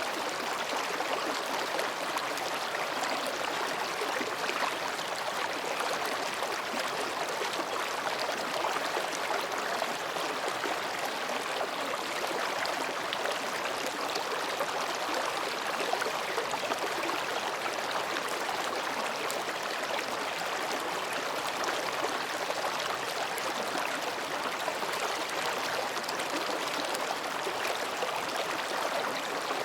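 Mountain stream flowing and babbling over rocks, a steady, even rush of water.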